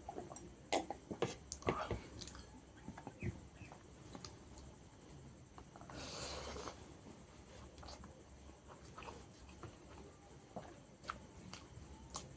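Mouth sounds of a person eating rice and fish curry: scattered wet smacks and clicks of chewing, busiest in the first few seconds, with a short breathy hiss about halfway through.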